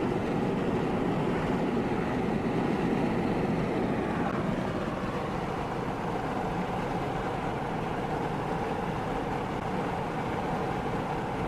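Car driving: steady road and engine noise.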